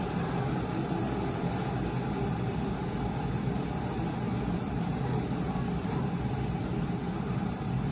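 COSORI stainless-steel electric kettle heating water: a steady low rumble with a faint hiss, without a break.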